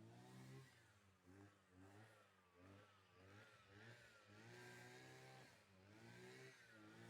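A faint engine revving up and down again and again.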